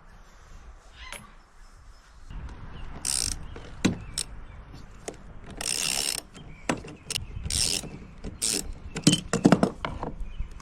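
A ratchet wrench clicking in several short strokes, mixed with sharp metal clicks, as the old bolts holding the chainplates are worked loose.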